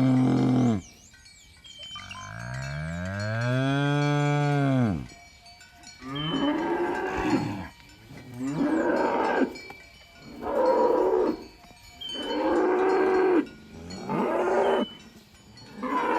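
Cattle mooing: a long, low moo that rises and falls in pitch, then a run of shorter, hoarser moos about every two seconds.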